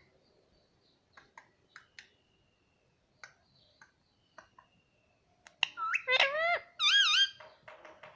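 Pet parrot vocalising: scattered soft clicks and short chirps, then about five seconds in a run of loud calls that swoop up and down in pitch, trailing off into softer chatter.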